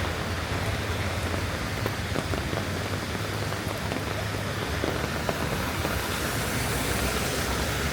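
Steady rain falling, with scattered drops ticking close by, over a low steady rumble.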